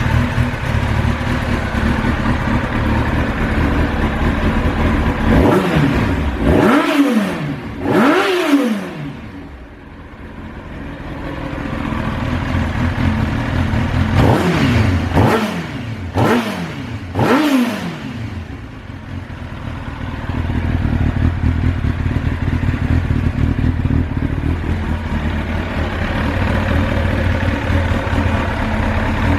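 Kawasaki ZX-9R (ZX900C) inline-four engine with an OVER aftermarket muffler idling, blipped twice about six to nine seconds in and four times in quick succession around fourteen to eighteen seconds, each rev rising and falling back to idle.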